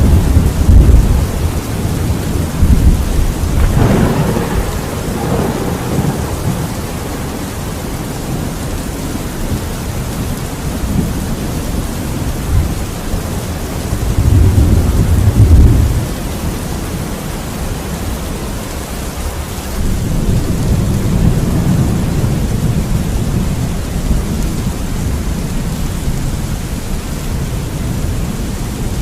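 Thunderstorm: steady heavy rain hiss with rolling thunder rumbling underneath, swelling loudest at the start, again about halfway through, and once more in the last third.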